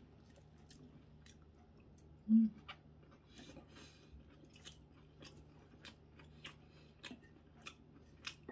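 Close-up chewing of a mouthful of tonkatsu (breaded fried pork cutlet): soft crunching clicks at irregular intervals, with a short low hummed voice sound about two seconds in.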